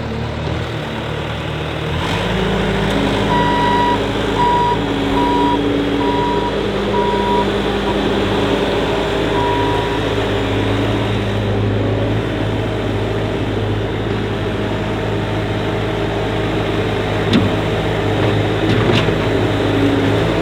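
Skid-steer loader's engine running steadily, coming in abruptly about two seconds in, with its backup alarm beeping about half a dozen times.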